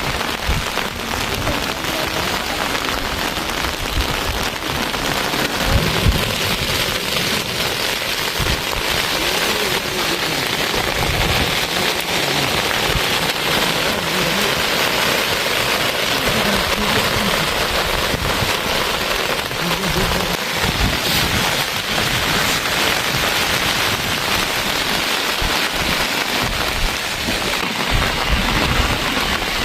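Steady rain falling, with irregular low thuds underneath.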